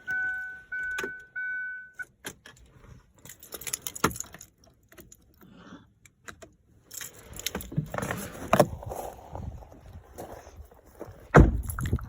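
Car's warning chime beeping several times just after the engine is shut off, then keys jangling and clicking as they are handled, with a loud thump near the end.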